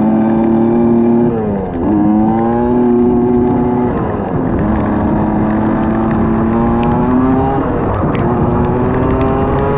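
A vehicle engine accelerating through the gears: its pitch climbs steadily, drops sharply at each of three gear changes, then climbs again, over steady road noise.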